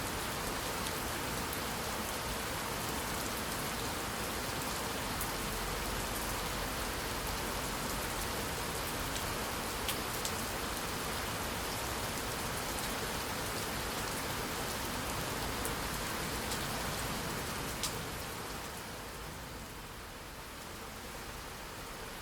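Steady rain falling, with scattered sharp drop hits standing out; the rain grows quieter near the end.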